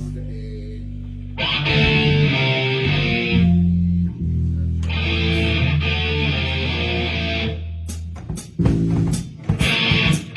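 Rock band playing: electric guitar and bass guitar holding long chords under washing cymbals, then separate drum hits near the end.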